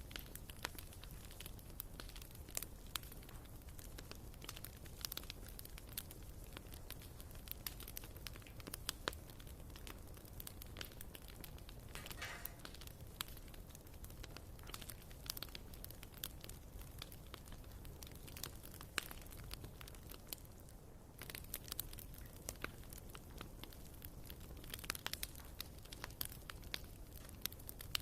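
Wood fire burning in a fireplace: irregular crackling and popping of the logs over a low steady rumble, with a brief hiss about twelve seconds in.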